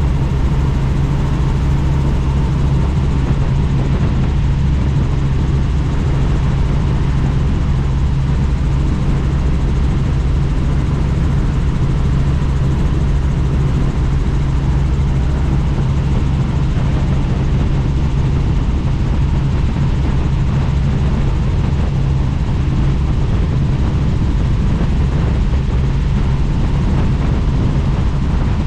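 Helicopter in flight, heard from inside a doors-off cabin: a steady, loud drone of rotor and engine with a constant low hum, over rushing wind noise.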